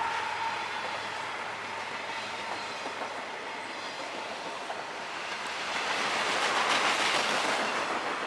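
Freight train rolling past with a steady rumble and rattle of wheels on the rails. It grows louder again near the end, then cuts off abruptly.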